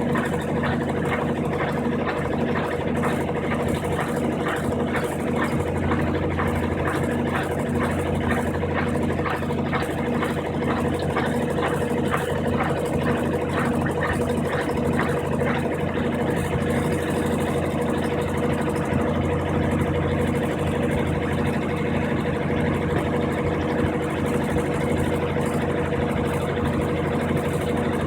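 Brastemp 15 kg washing machine running steadily in its spin cycle: an even motor hum with a faint regular pulse.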